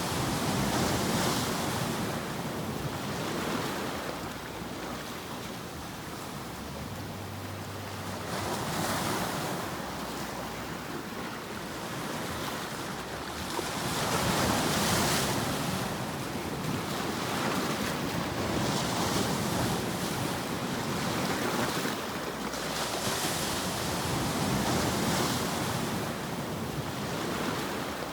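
Continuous rushing sound of surf, swelling and ebbing every few seconds as waves wash in, with a bright hiss at each swell.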